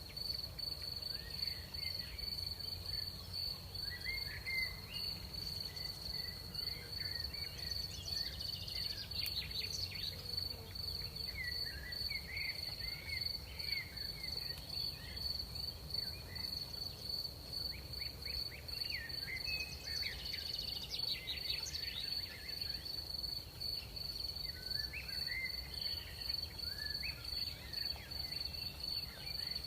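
Night crickets trilling in one unbroken high note, with scattered shorter chirping calls lower in pitch coming and going over a faint low background rumble.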